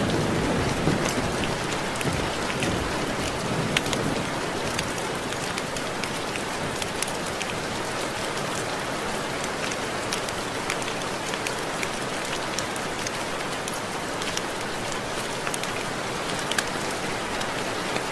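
Steady rain with individual raindrops ticking against window glass. A low rumble at the start dies away within the first second or two.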